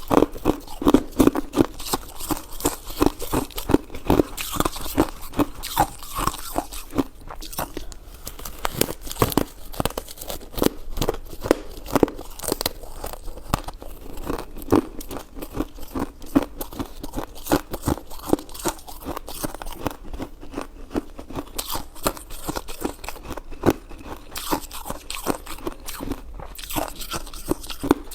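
Close-miked chewing and biting: a dense, unbroken run of short clicks and crunches, several a second.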